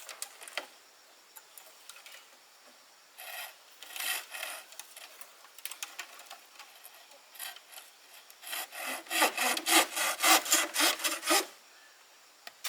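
Hand sawing into wood. A few strokes come about three seconds in, then a run of quick, regular strokes, about three a second, for some three seconds near the end.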